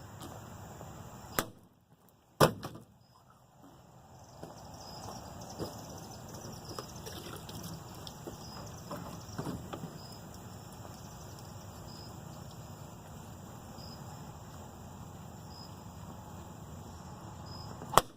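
Sharp cracks of a katana blade striking plastic bottles: two about a second apart near the start and one near the end, over a steady background of crickets chirping.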